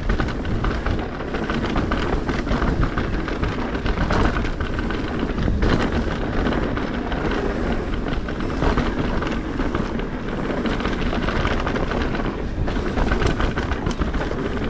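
Electric mountain bike rolling fast down a dirt singletrack, a continuous rush of tyre and ride noise with frequent rattles and knocks over bumps.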